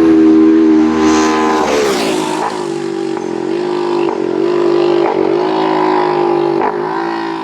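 A road-racing motorcycle going by at speed, its engine note dropping sharply as it passes about two seconds in, then carrying on at high revs with several brief dips in pitch.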